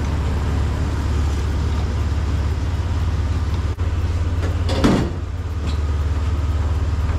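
2002 Jeep Wrangler TJ engine idling steadily, a constant low drone. A short, louder noise rises above it about five seconds in.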